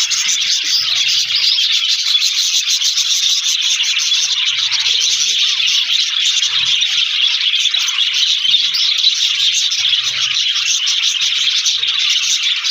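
A colony of budgerigars chattering and warbling all at once: a dense, unbroken wash of many shrill chirps with no pause.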